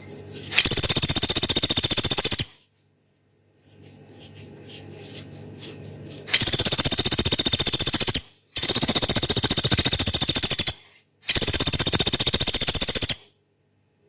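Small woodpecker known as pelatuk beras giving a rough, rapid rattling trill, four times, each about two seconds long and high-pitched. There are fainter short calls between the first and second trills.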